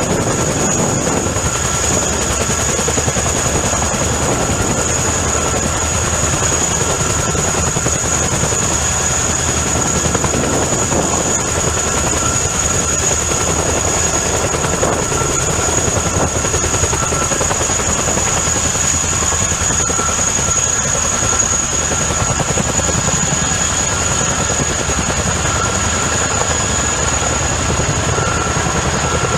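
CH-47 Chinook tandem-rotor helicopter running steadily, its rotor noise overlaid by a high, steady turbine whine.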